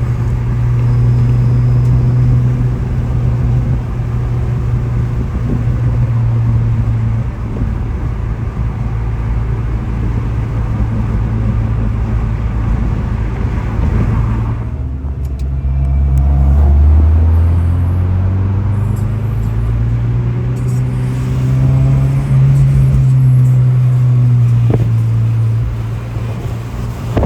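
A car engine running steadily. About halfway through its note drops lower for a few seconds, then climbs back up.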